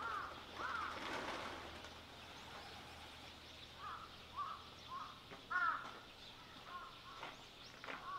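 Birds calling outdoors: a couple of short calls, each rising and falling, near the start, then a run of similar calls about every half second through the second half, over faint outdoor background noise.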